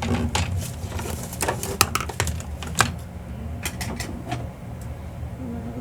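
Irregular sharp taps and clicks, about a dozen, of a small ink dauber being picked up, uncapped and dabbed onto a paper cutout, over a steady low hum.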